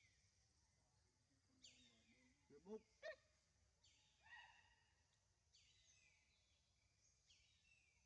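Near silence with faint forest birdsong: high calls recurring about every two seconds, and two short rising squeaks about three seconds in.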